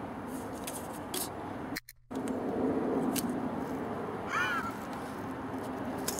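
Steady outdoor woodland background noise, cutting briefly to silence about two seconds in, with a single short bird call, a caw, about four seconds in.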